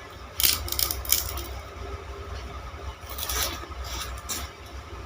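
A green sugar cane stalk being bitten and chewed, with crunchy, splintering cracks of the fibres in a few quick clusters: about half a second in and again around three seconds in.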